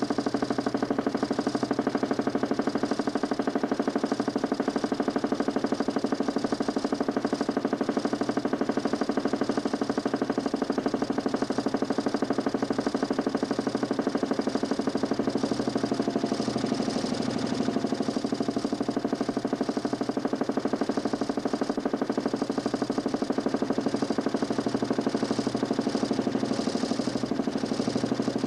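DC motor spinning a large 40cm plywood Nipkow scanning disc in a homemade mechanical television, running at steady speed. It makes a steady mechanical hum with a fast, even flutter.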